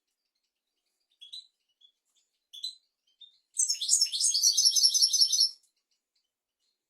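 European goldfinch singing. A few short, separate chirps lead into a rapid, high-pitched twittering phrase of about two seconds, just past the middle.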